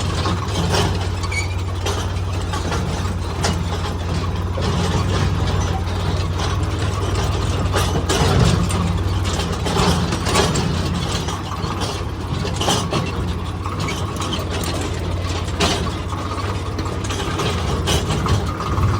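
Tractor diesel engine running steadily while driving, with many irregular metallic rattles and knocks from the tractor and its trolley.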